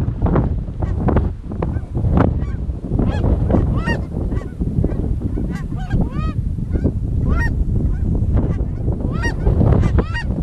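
Goose honks and clucks in quick succession over a heavy low rumble of wind on the microphone.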